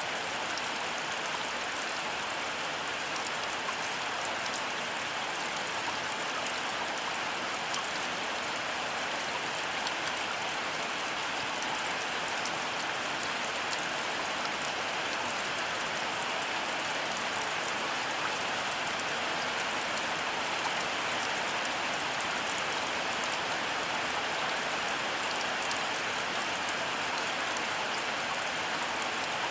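Heavy rain falling steadily, a constant hiss with the fine patter of many individual drops hitting surfaces. No thunder is heard.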